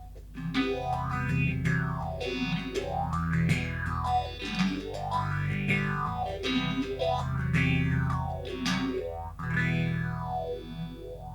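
Electric guitar notes played through a phaser pedal, the phase sweep rising and falling about once a second.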